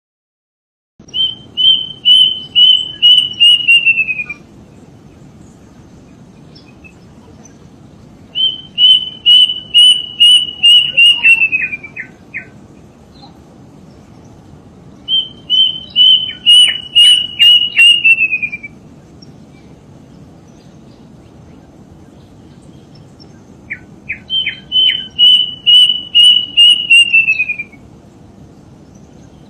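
A bird of paradise calling: four runs of loud, clear notes repeated about three times a second, each run dropping in pitch at its end, with pauses of several seconds between runs.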